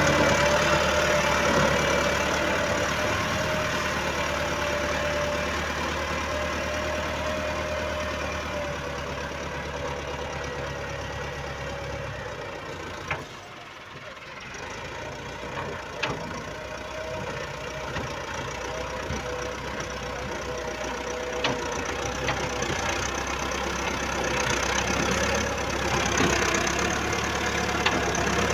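Tractor engine running steadily, dropping away briefly about halfway through and then picking up again, with a few sharp clicks.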